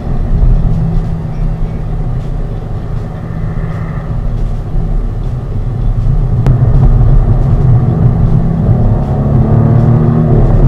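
The 2020 Audi S6's 2.9-litre twin-turbo V6 pulling under throttle in dynamic mode, heard from inside the cabin. It grows louder about six seconds in, with a single sharp click, and the engine note rises near the end.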